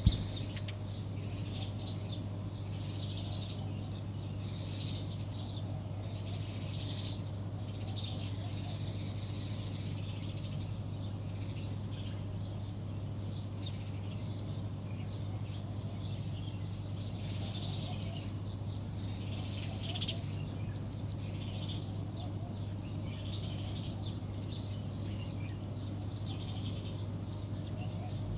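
A flock of small birds chirping continuously in overlapping bursts of high calls, over a steady low hum.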